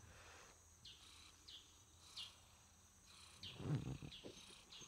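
Faint, short high chirps from small birds every half second to a second over a quiet background, with a brief rustle about three and a half seconds in.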